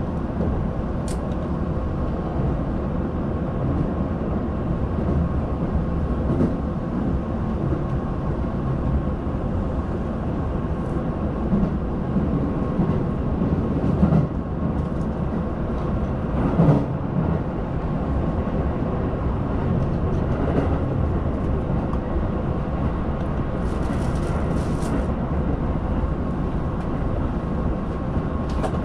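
Keihan limited express train running, heard from inside the passenger car: a steady rumble of wheels on rail, with a couple of louder knocks about halfway through.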